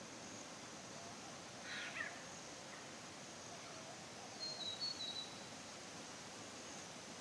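Forest ambience: a steady background hiss with birds calling. A short harsh call sweeps downward about two seconds in, and a few quick high thin chirps come about halfway through.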